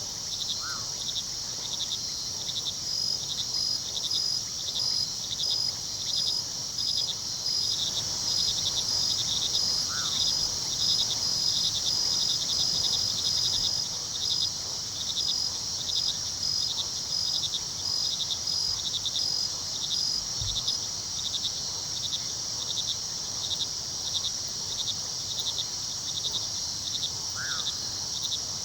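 Night chorus of crickets chirping steadily, with a high pulsed trill that stops about two-thirds of the way through. Three short calls sound near the start, about a third of the way in and near the end, over a faint rush of river water.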